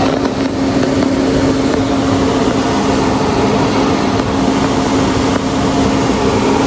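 Steady mechanical hum: a motor running at an even speed with a constant low drone and no changes.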